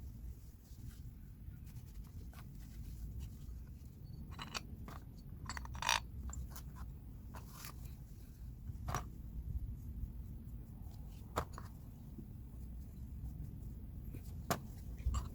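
Irregular sharp clicks and clinks of hand tools and metal parts being handled, over a low steady rumble.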